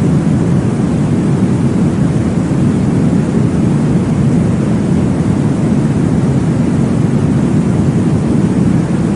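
Steady, low whooshing noise, a recreated womb sound used as a baby sleep aid, with most of its weight in the bass and no change throughout.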